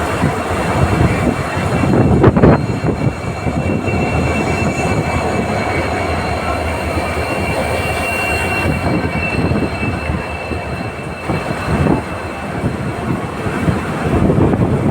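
Passenger train of ICF coaches running on the rails, heard from aboard: a steady loud wheel-and-rail rumble with a thin, steady high-pitched wheel squeal over it, and a louder knock about two seconds in.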